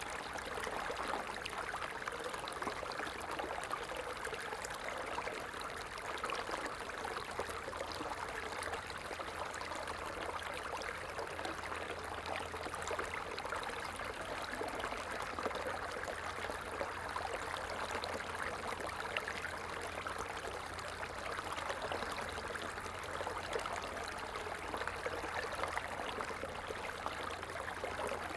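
A stream running steadily: an even rush of flowing water with many small splashes throughout.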